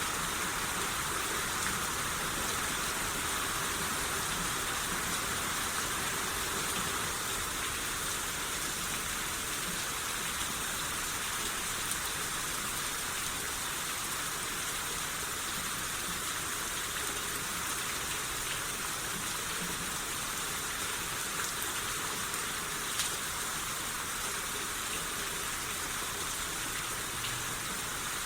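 Steady rain falling on surfaces, an even hiss with a few faint drop ticks.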